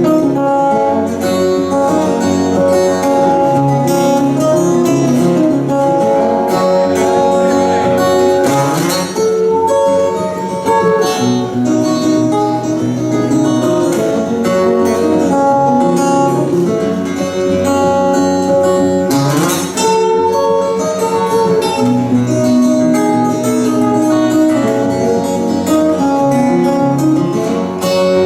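Acoustic guitars playing an instrumental piece together, with two quick sweeping strums across the strings about 9 and 19 seconds in.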